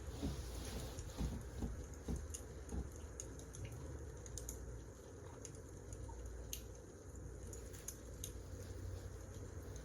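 Wood fire crackling: scattered sharp pops and snaps over a steady low rumble, with a few soft low knocks in the first three seconds.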